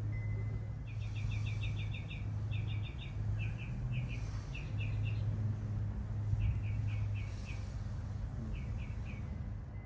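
A small bird chirping in quick runs of short, high notes, several bursts with short pauses between them, over a steady low hum.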